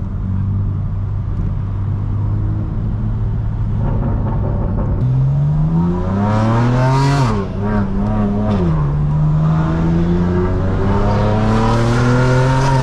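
Straight-piped BMW M4 Competition's twin-turbo inline-six, cruising steadily and then accelerating about five seconds in. The revs climb, fall sharply at a quick upshift, hold briefly, drop again at another shift and then climb steadily.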